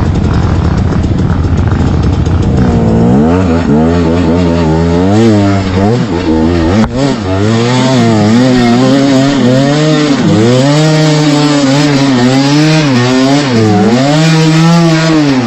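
Trail motorcycle engine at first running with a steady low rumble, then from about three seconds in revving up and down over and over, about once a second. This is the rider working the throttle to climb a muddy slope.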